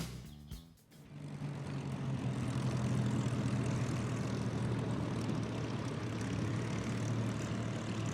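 Piston-engined propeller aircraft flying over: a steady engine drone that swells in over the first couple of seconds, holds, and eases off slightly near the end.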